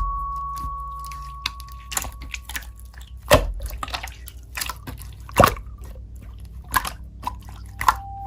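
Slime being pressed and squeezed, with scattered wet pops and clicks; the loudest pops come about three and a half and five and a half seconds in.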